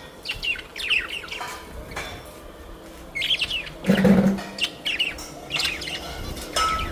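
Parrots chirping in clusters of quick, high chirps, with a louder, lower call about four seconds in.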